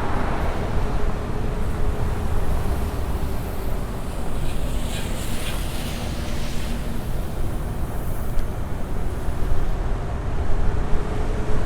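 Wind rushing over the microphone of a rider on an electric unicycle moving at steady speed, with a faint steady hum beneath it.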